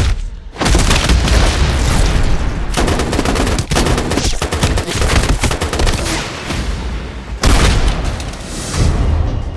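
Rapid, sustained gunfire from film sound effects: many shots in quick succession with heavy booms. The loudest surges come about half a second in and again near seven and a half seconds.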